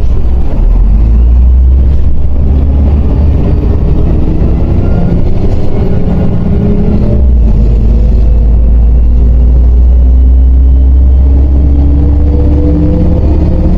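Interior sound of a MAZ 105.065 city bus under way: the diesel engine runs with a strong low rumble and its note climbs as the bus accelerates, drops briefly about six seconds in, then climbs steadily again.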